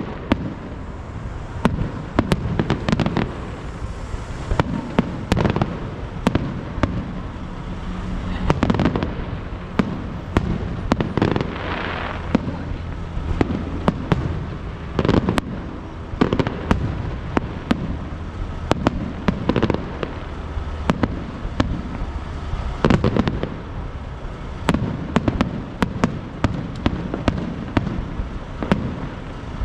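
Aerial fireworks going off in quick succession: many sharp bangs, sometimes several a second, over a continuous low rumble, with a stretch of crackling shells near the middle.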